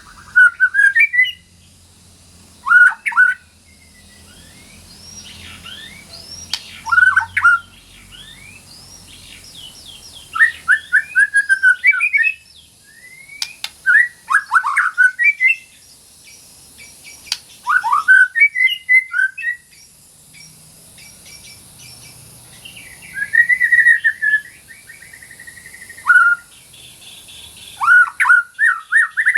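White-rumped shama (murai batu) singing: about nine short phrases of quick, rising whistled notes, each a second or two long, with brief pauses between.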